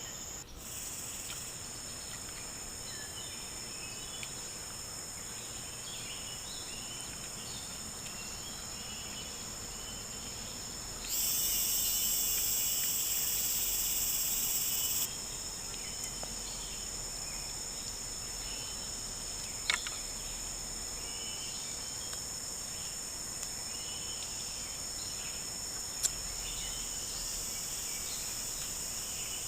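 Rainforest insects trilling steadily, with scattered faint chirps. A louder, higher buzz joins in abruptly for about four seconds near the middle, and two sharp clicks come later.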